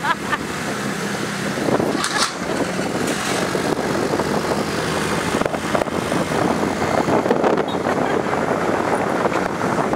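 Steady rush of traffic and wind noise heard while riding a bike along city streets.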